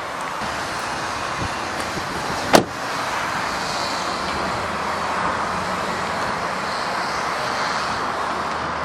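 Steady vehicle noise, with a single sharp thud of a car door being shut about two and a half seconds in.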